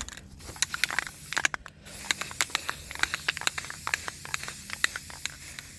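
Aerosol spray-paint can spraying with a steady hiss, with many sharp irregular clicks over it.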